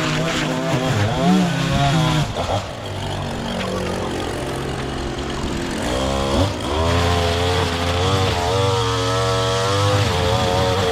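Small gas engine of a piece of lawn equipment running steadily, with its pitch dipping and coming back up twice as the throttle is let off and opened again.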